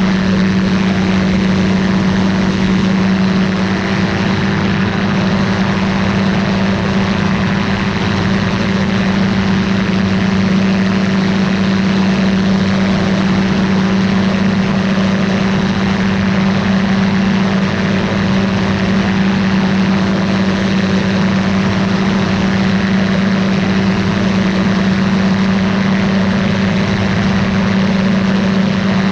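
Ultralight aircraft's engine and propeller running at a steady, unchanging pitch in flight.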